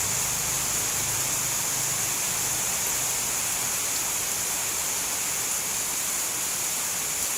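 Steady heavy rain, an even hiss with no thunder and no separate drops standing out.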